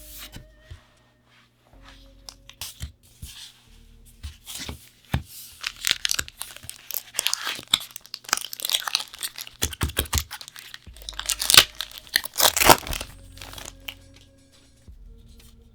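A foil trading-card booster pack wrapper being torn open and crinkled by hand. It starts with a few light handling clicks, then a run of crackling tearing and crinkling from about five seconds in, loudest near the end before it stops.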